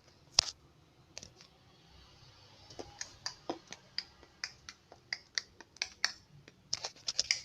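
Irregular sharp clicks and snaps: one loud one at the start, then a run of quicker ones that grows denser toward the end.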